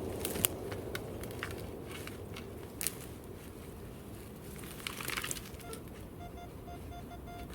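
Crunching and crackling of soil and leaf litter being handled or dug, with scattered sharp clicks and a louder rustle about five seconds in. Near the end comes a run of short, evenly repeated electronic beeps.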